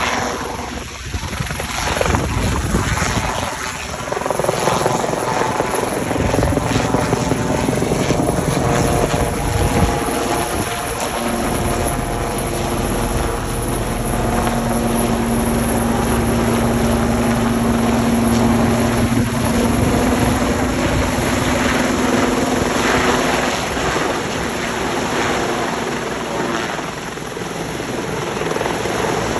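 Helicopter coming in to land, its rotor and engine running loud and steady, with a steady hum that holds for several seconds midway.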